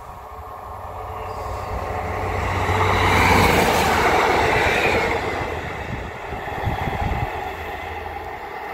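Class 153 diesel railcar passing close by: the engine and wheels on the rails build to a peak about three seconds in, then fade as the train runs away. Wind rumbles on the microphone throughout.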